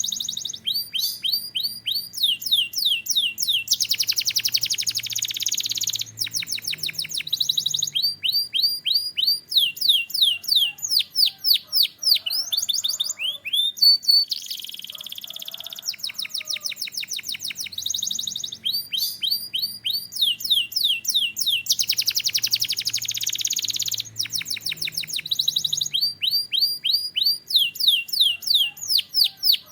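Canary singing: quick runs of high, downward-slurred whistled notes alternate with dense, rapid trills. The same sequence of phrases comes round again about every 18 seconds.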